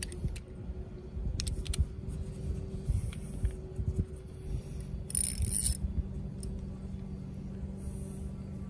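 Hands-on repair work: scattered clicks, knocks and scrapes of tools and metal parts, with a brief hiss about five seconds in, over a steady low hum.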